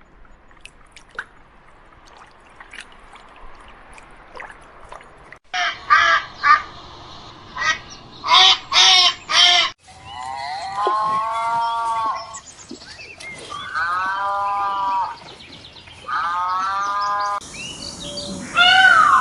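Animal calls: after a quiet start, a quick run of short pitched calls, then three longer calls about two seconds each, and another call near the end.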